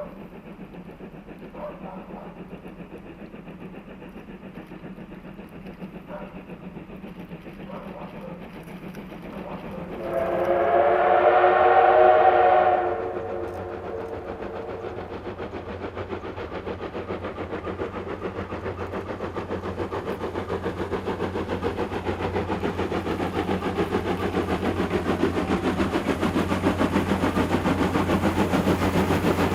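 JNR Class D51 steam locomotive (D51 498) working hard up a steep 25‰ grade. Its fast exhaust chuffs grow steadily louder as it approaches, and a steam whistle blows for about three seconds, starting about ten seconds in.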